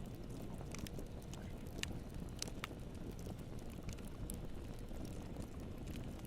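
Campfire burning with a steady low rumble and scattered sharp crackles and pops of the wood, a few louder pops about two to two and a half seconds in.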